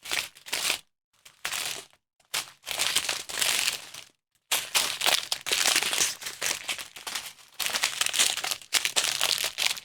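Small plastic packets of diamond-painting drills crinkling as they are handled and sorted through. It comes in short bursts with brief gaps at first, then runs almost without a break through the second half.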